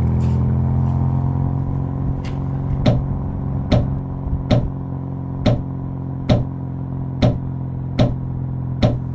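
Battery-powered toy vehicle's small electric motor running with a steady hum. From about three seconds in, a sharp click comes roughly once a second.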